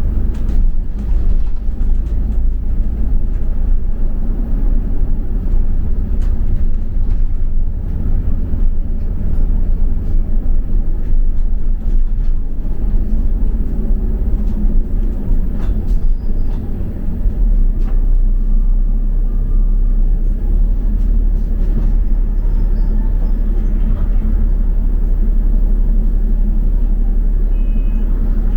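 Double-decker bus under way, heard from inside: a steady low engine and road rumble.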